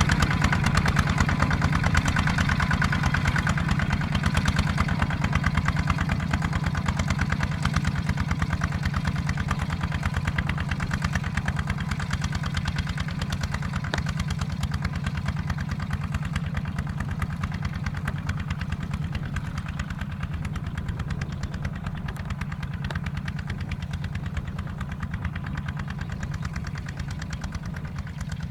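Kubota ZT155 single-cylinder diesel engine of a field tractor running steadily, gradually getting quieter over the stretch.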